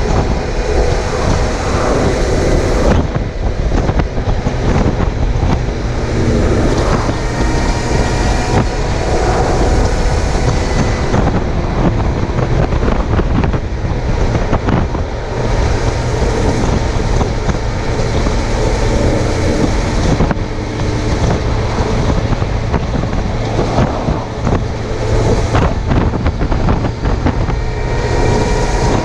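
Suzuki GSX750F inline-four engine running while the motorcycle is ridden, with wind rushing over the chest-mounted camera's microphone. The sound is steady throughout, with a heavy low rumble and the engine note shifting slightly in pitch.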